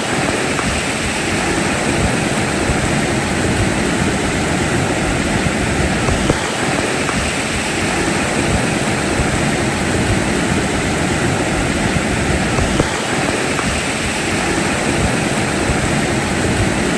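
Creek water rushing, a loud, steady noise that neither rises nor falls.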